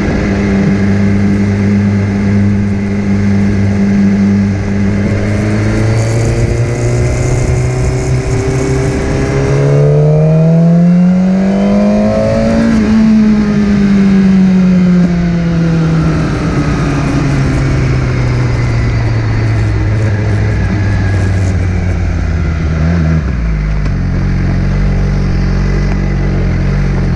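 Motorcycle engine running under way: its pitch climbs over a couple of seconds about ten seconds in, then falls slowly. Near the end it drops to a lower, rougher rumble.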